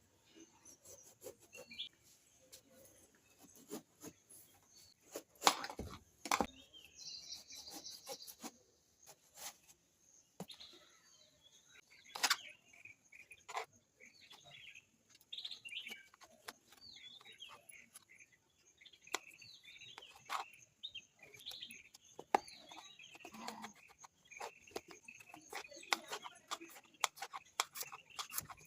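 Birds chirping in quick short calls, most often in the second half, with chicken-like sounds mixed in. Scattered sharp knocks and clicks come through it, the loudest about five, six and twelve seconds in.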